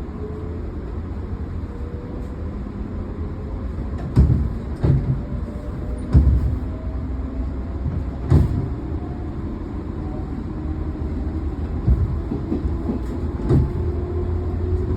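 Cabin running noise of a JR 113-series EMU motor car (MoHa 112), accelerating. The traction motors' whine rises slowly in pitch over the rumble of the wheels. Several heavy knocks come between about four and eight seconds in as the wheels cross track joints, with lighter ones later.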